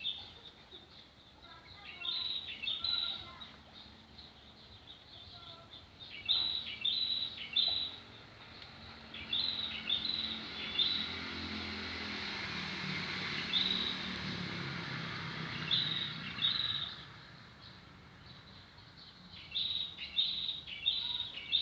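A wild bird chirping repeatedly, with short high calls in quick clusters of two to four. Midway a rushing noise with a low rumble swells for several seconds and then fades.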